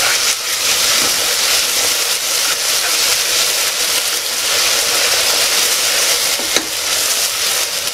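Sliced onions, green chillies and ginger-garlic paste sizzling in hot oil in an aluminium pressure cooker as they are stirred with a wooden spatula: a steady, loud frying hiss.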